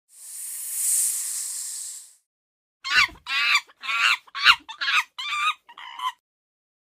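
A snake hissing for about two seconds, then, after a short pause, a chicken clucking in a quick run of about seven short calls.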